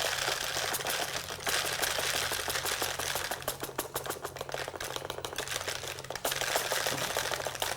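Bird seed being poured into a plastic bottle, the seeds rattling and clicking against the plastic in a dense, uneven stream.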